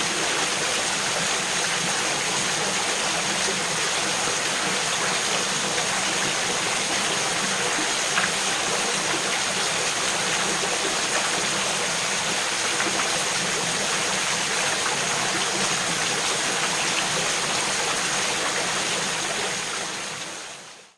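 Mountain creek flowing steadily over small falls, a continuous rush and babble of water that fades out near the end.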